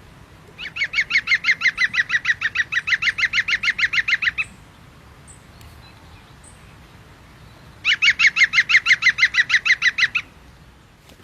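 An animal calling in two long runs of rapid, evenly repeated pitched notes, about eight a second: the first lasts about four seconds, and the second starts near the end and lasts about two.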